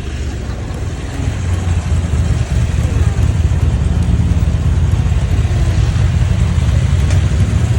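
BMW R1250GSA boxer-twin motorcycle engine running with a steady low rumble, getting louder about a second and a half in.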